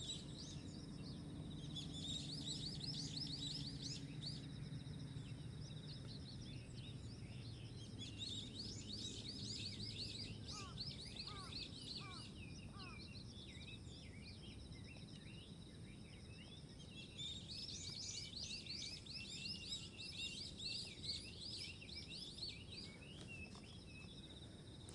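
Many small birds chirping in busy bursts that come and go three times, over a faint low rumble that fades out about ten seconds in.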